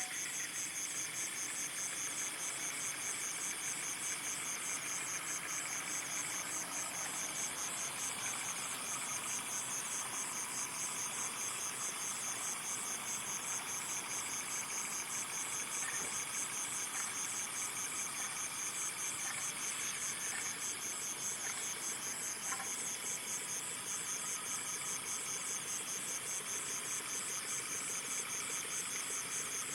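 Insect chorus, a steady high pulsing trill.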